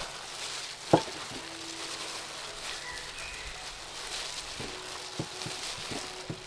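Food frying in a pan with a steady sizzle, with one sharp knock about a second in and a few lighter utensil knocks near the end.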